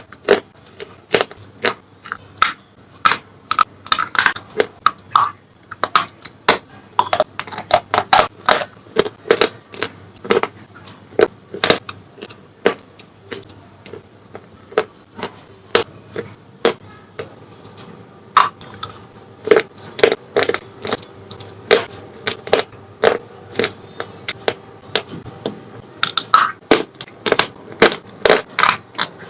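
A person biting and chewing slate pencil close to the microphone: a rapid, irregular run of sharp crunches and cracks, several a second.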